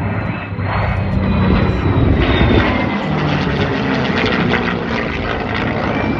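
Aircraft engine noise from a low pass at an air show, swelling over the first couple of seconds and then holding steady.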